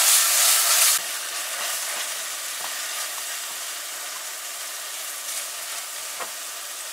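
Curry paste and onions sizzling in hot oil in a karahi while a silicone spatula stirs them, with a few faint scrapes against the pot. The sizzle drops sharply about a second in and then carries on as a steady, quieter hiss.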